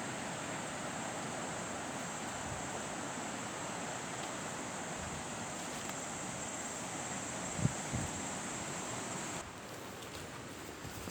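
Steady outdoor wind noise with an even high hiss over it. Two soft low bumps come about three quarters of the way through, and the noise drops suddenly shortly before the end.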